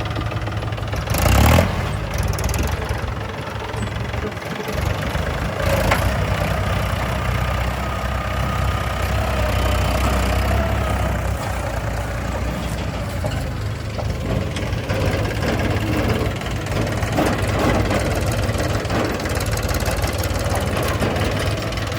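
Diesel engine of heavy machinery running steadily. A short loud noise comes about a second and a half in.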